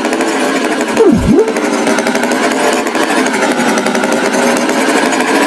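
Loud, steady buzzing of a small motor, with a quick dip and rise in pitch about a second in.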